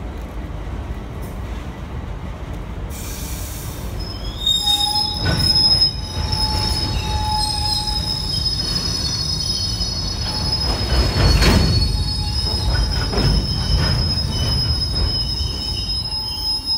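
Freight train of bogie aggregate hopper wagons rolling past with a steady low rumble and a few knocks; from about four seconds in, the wheels squeal with high, steady tones that carry on while the wagons go by.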